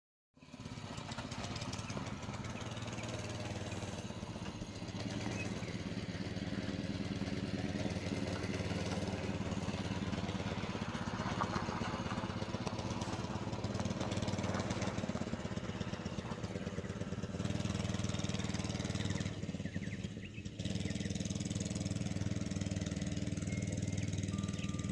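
Mini bike's small engine running steadily, dipping briefly about twenty seconds in.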